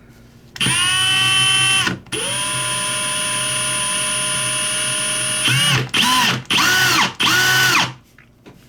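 Small electric drill running in several goes: a short run, a steady run of about three seconds, then three or four quick bursts. Its whine rises as each run starts and drops as it stops, drilling into a lighter's brass part that seems to be hard brass.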